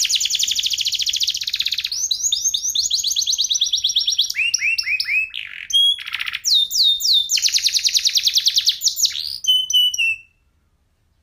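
Domestic canary singing: very fast trills of high, repeated, descending notes, dropping midway to a few lower, slower notes, with a brief pause around six seconds. The song stops about ten seconds in.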